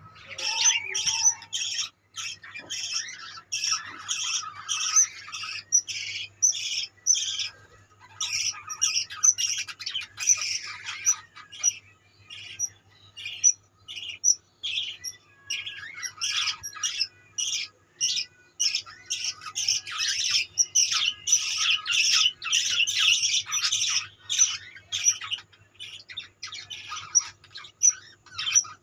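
Caged budgerigars chattering and squawking, many short sharp calls several times a second, overlapping almost without pause.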